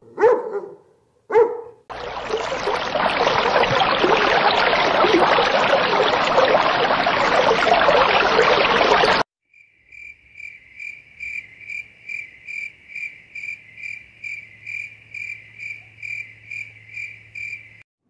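Two short dog barks, then a loud steady rushing noise for about seven seconds that cuts off abruptly. After it comes insect chirping: a steady train of short high chirps at one pitch, about two and a half a second.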